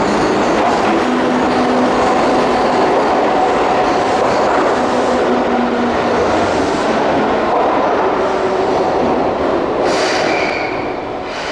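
Keihan Main Line electric train moving along an underground station platform: continuous wheel-on-rail noise with steady motor tones, easing off near the end. About ten seconds in comes a short hiss with a high tone.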